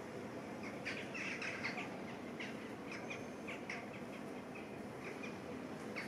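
Small birds chirping: a quick, irregular run of short, high chirps starting about a second in, over a steady low outdoor background hiss.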